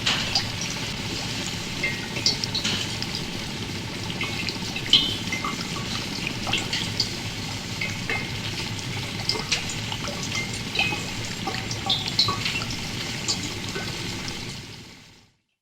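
Water splashing and trickling, with many small drips and plinks over a steady wash, fading out near the end.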